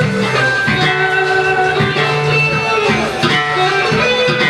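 A band playing, with guitar prominent over held notes and a moving bass line.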